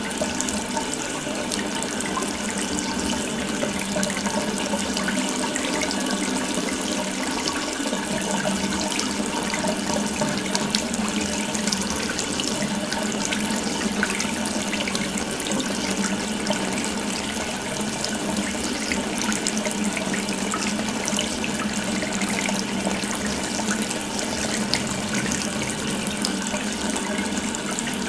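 Water tap left fully open, a steady stream of water running and splashing.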